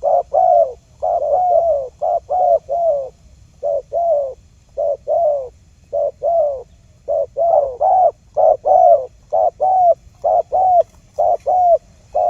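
Spotted dove cooing over and over in short hooting notes, in quick groups of two to four. It is a lure call for drawing wild spotted doves.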